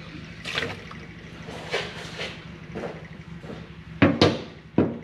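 Liquid splashing and pouring in several short bursts, with three sharp knocks near the end, over a steady low hum.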